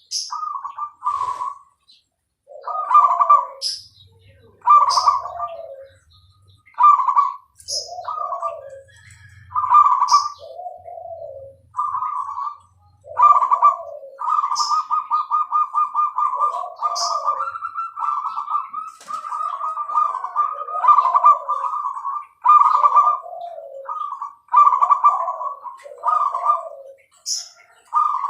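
Zebra doves (perkutut) cooing over and over: short clipped coo phrases, each ending in lower falling notes, with a long rolling trilled coo through the middle. Brief high chirps sound over the top every second or two.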